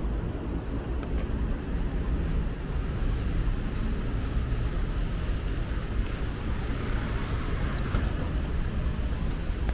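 Street traffic running by on a wet road: a steady low rumble of engines with the hiss of tyres, swelling slightly as a vehicle passes near the end.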